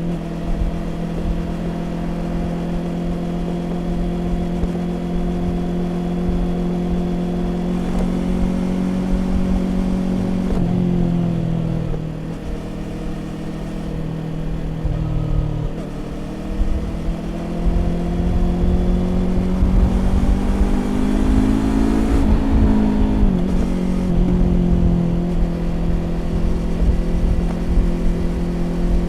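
Yamaha YZF-R25's parallel-twin engine running through a Prunus aftermarket exhaust at a steady cruise. The revs dip about a third of the way in, then climb steadily for several seconds, fall back sharply about three-quarters of the way through, and settle at a steady pitch again.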